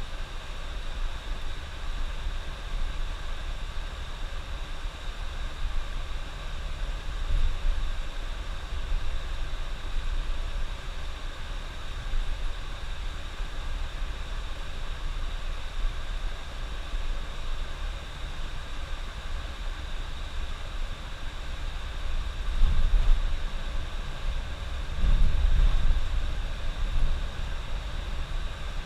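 Bus running on the highway, heard from inside: a steady low engine and road rumble, with two louder low surges about three-quarters of the way through.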